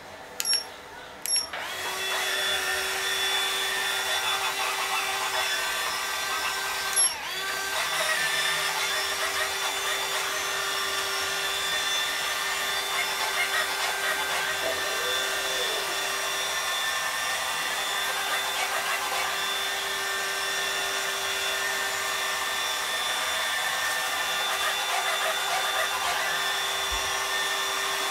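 Robot vacuum cleaner: two short beeps, then about two seconds in its motor starts and runs steadily with a steady hum and a high whine. There is a brief click about seven seconds in.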